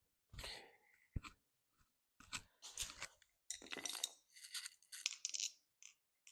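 Irregular crinkling and rustling from handling things on a workbench, with two short knocks in the first second or so.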